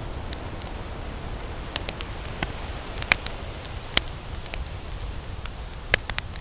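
Campfire crackling, with irregular sharp pops over a steady low rumble; the loudest pops come about three, four and six seconds in.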